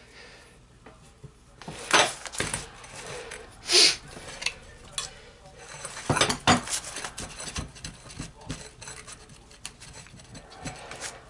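Knocks and metallic clinks of a musket barrel being worked loose from its wooden stock and lifted out, with a few sharper knocks about two, four and six seconds in among lighter ticks.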